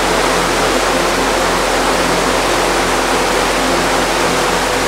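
Steady, loud rushing of flowing water, an even hiss with no breaks.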